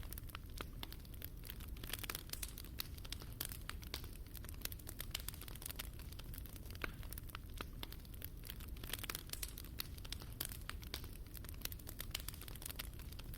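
Wood fire burning in a fireplace: irregular small crackles and pops, some sharper than others, over a steady low rumble.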